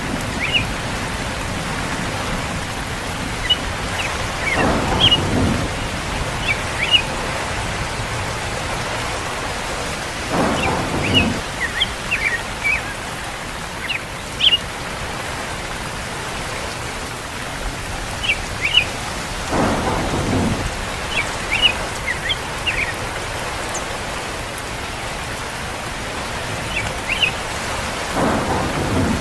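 Steady rain with rumbles of thunder rolling in four times, each lasting about a second. Short high chirps, like birds, are scattered over the rain.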